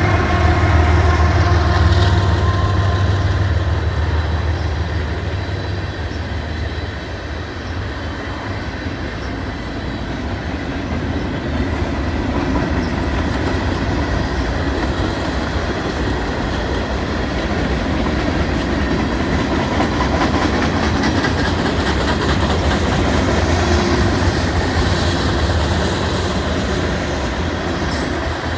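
Freight train passing close by: the diesel locomotives' engines hum low for the first few seconds as the last unit goes by, then the freight cars roll past with a steady wheel-on-rail rumble and clickety-clack over the rail joints.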